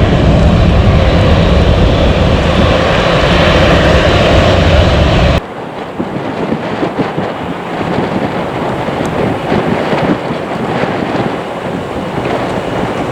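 Jet engines of a departing Airbus A321 running loud and steady. About five seconds in, this cuts off abruptly to a quieter, gusty noise of wind on the microphone with a faint jet rumble.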